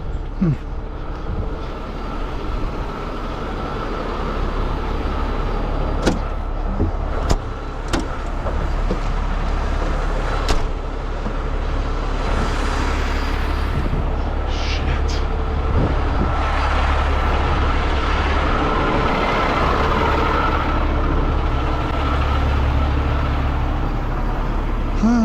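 A vehicle engine running steadily, with a few sharp clicks and knocks between about six and ten seconds in.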